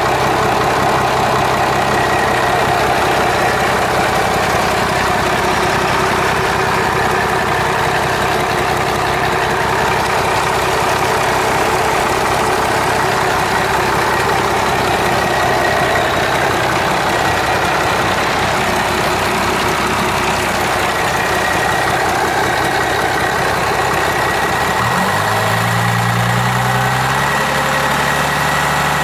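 1996 Dodge Ram 5.9 12-valve Cummins inline-six turbo diesel idling steadily with diesel clatter, then revved up near the end and held at higher speed.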